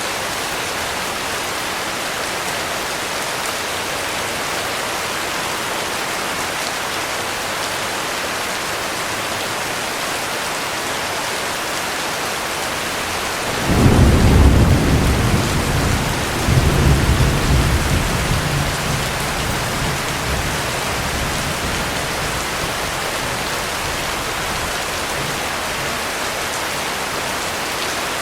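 Heavy rain falling steadily, with a thunderclap about halfway through: a sudden deep crack, a second rumbling surge a few seconds later, then a rumble that fades away over several seconds.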